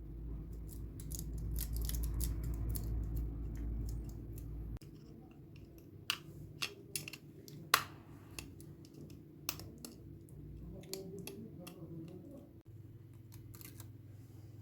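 Small sharp clicks and taps of hand tools working on a phone's circuit board during a resistor replacement, over a steady low hum of bench equipment. The deepest part of the hum stops about five seconds in.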